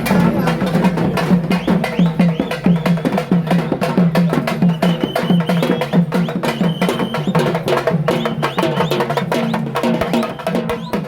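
Traditional drums beating a fast, dense rhythm, with sharp strokes and a strong low pulse several times a second, and a few brief high tones about halfway through.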